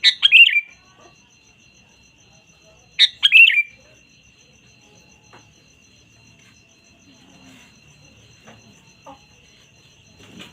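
Sooty-headed bulbul (kutilang) singing two short phrases about three seconds apart, each a quick run of bubbly, falling notes. A faint steady high tone runs underneath.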